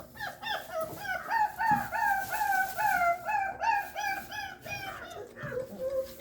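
Puppy whining in a rapid, even series of short high cries, about three a second. The cries slowly drop in pitch and grow fainter near the end.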